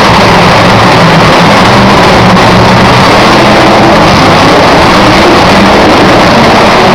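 Monster truck engine running hard, steady and very loud, overloading the recording.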